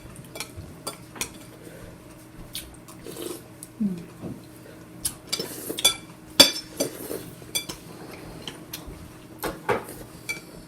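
Cutlery clinking and knocking against dishes in irregular strokes, the loudest about six seconds in and again near the end.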